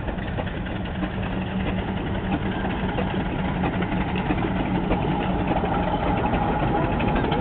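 Steam road engine running as it moves through the arena, a fast, even mechanical beat growing gradually louder as it comes closer.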